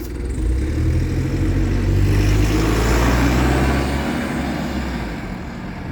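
Bus engine pulling away, growing loud about half a second in, then fading over the last two seconds as the bus moves off.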